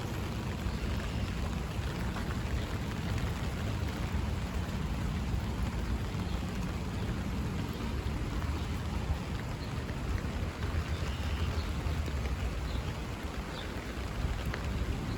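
Steady rain falling, pattering on an umbrella held overhead, with a low rumble underneath.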